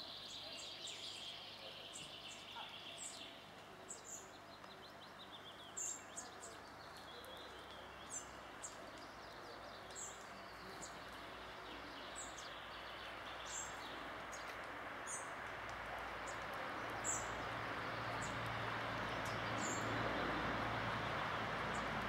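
Woodland birds calling: a falling, high-pitched trill in the first few seconds, then short, sharp, high-pitched notes every second or so. A background rush grows steadily louder over the second half.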